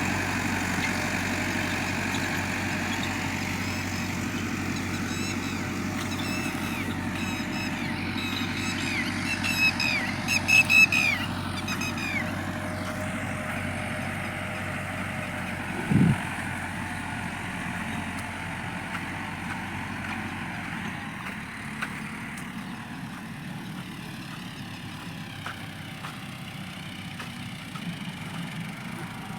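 Tractor engine idling steadily, its hum getting quieter in the second half. A run of short high-pitched chirps comes about ten seconds in, and a single low thump a few seconds later.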